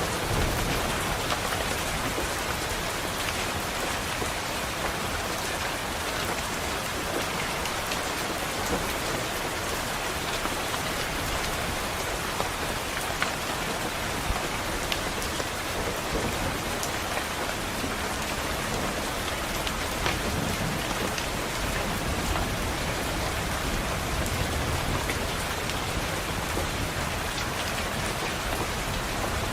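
Steady rain pattering on a window pane, with scattered sharp drop ticks and a low rumble of distant thunder underneath at times.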